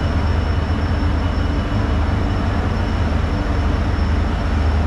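Diesel train engine running steadily while the train stands at the station: a steady low rumble with a faint high whine over it.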